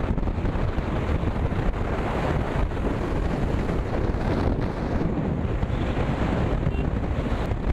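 Heavy wind buffeting the microphone on a moving motorcycle, a steady low rumbling rush with the bike's own sound buried under it.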